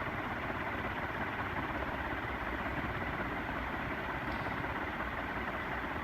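56-inch Butterfly industrial ceiling fan, cast iron motor with aluminum blades, running steadily on high speed: an even, constant rush of moving air and motor noise.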